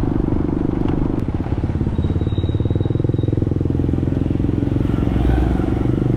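Motorcycle engine running steadily while riding, with an even, fast pulsing beat.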